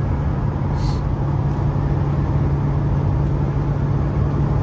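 Cabin sound of a cammed GM pickup cruising steadily at freeway speed, about 80 mph: a constant low exhaust hum over road and tyre noise. The exhaust is set to its loud mode, and the hum is free of drone.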